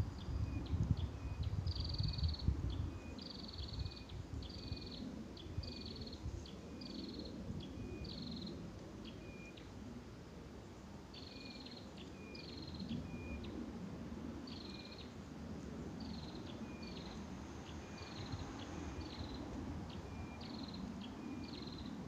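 A bird calling over and over, about once a second: each call a high note that drops to a short lower note, with a pause about halfway through. A low rumble lies under the first couple of seconds.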